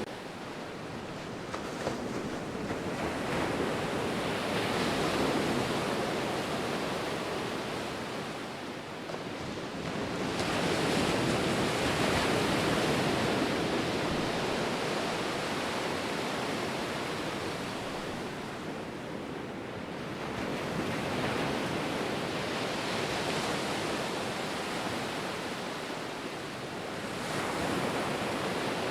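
Ocean waves breaking and washing on the shore, a continuous rush of surf that swells and ebbs in slow surges several seconds apart.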